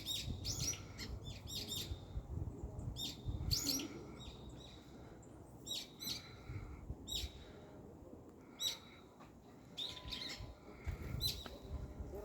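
Small birds giving short, sharp chirping calls, repeated in scattered groups, over a low rumble that fades after a few seconds.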